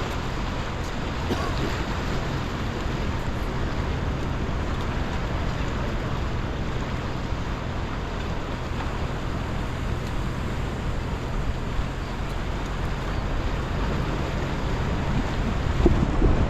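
Steady ocean surf and wind noise buffeting the microphone, with a low steady engine drone underneath, like a passing boat's motor. A short louder gust near the end.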